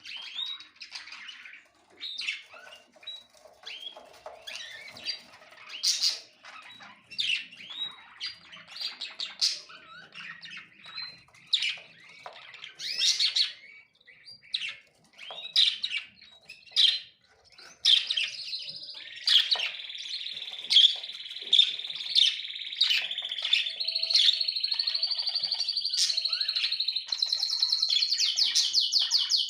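Small songbirds chirping in quick, separate high calls, giving way about two-thirds in to steadier twittering, then a fast, even, high trill near the end.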